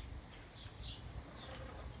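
A bird chirping: a series of short, high, slightly falling chirps repeating every half second or so, over a steady low rumble.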